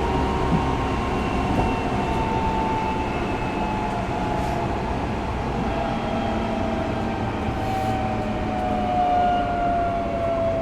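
Running noise inside a Tokyo Metro 05 series subway car: a steady wheel-and-track rumble with a traction motor whine that slowly falls in pitch as the train loses speed.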